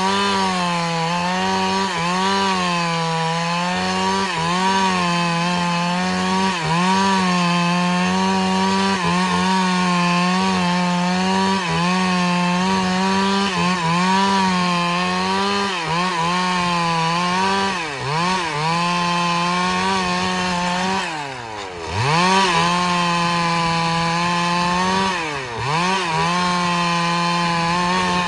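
Chainsaw cutting a large log at full throttle, its engine pitch sagging under load every second or two. Twice near the end the pitch drops sharply and climbs back, and at the very end the engine winds down.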